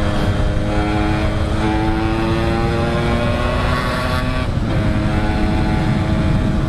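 Yamaha RX King's two-stroke single-cylinder engine pulling under acceleration, its pitch rising slowly, dropping at a gear change a little past halfway and climbing again, over wind and road rumble. It runs with an open air filter and a main jet that is too small, which the rider says keeps it running lean and without punch.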